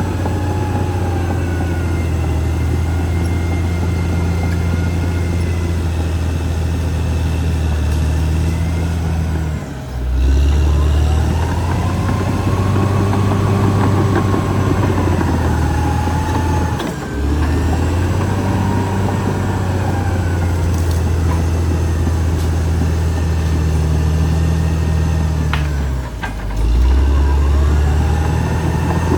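Caterpillar D6R XL bulldozer's diesel engine running steadily under load, with a rising-and-falling whine above it. Three times the engine note dips briefly and then picks up again.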